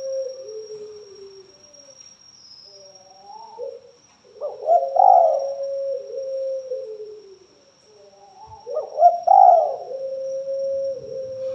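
Spotted dove (tekukur) cooing: two calls a few seconds apart, each a short run of louder notes followed by a long held coo.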